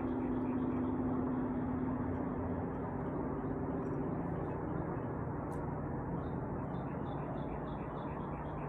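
A steady low mechanical hum with a few steady tones, its lower tone growing stronger about halfway through.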